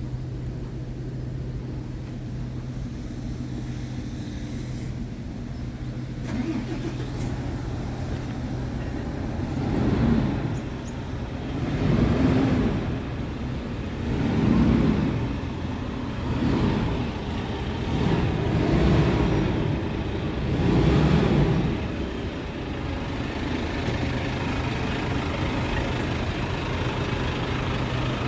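Scania G truck's diesel engine idling steadily, then revved about six times in short swells before settling back to idle.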